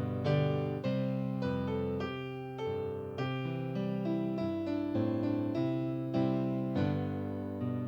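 Soft, slow piano music: sustained chords with gentle notes struck every second or so.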